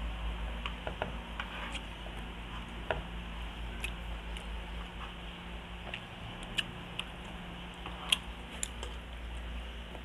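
Close-miked eating by hand: chewing and small wet mouth clicks and smacks, with scattered sharp clicks, a few louder ones about three, six and a half and eight seconds in. A steady low hum runs underneath.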